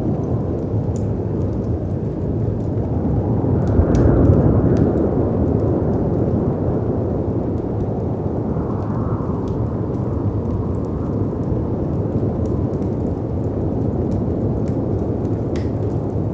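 Layered storm ambience: a steady low rushing of wind and sea, swelling to a louder surge about four seconds in, with the sparse small pops and crackles of a fireplace scattered throughout.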